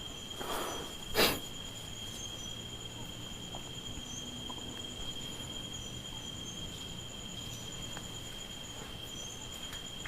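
Night insects, crickets, trilling steadily in two high tones, the upper one finely pulsed. Near the start come two short rustling knocks, the second louder.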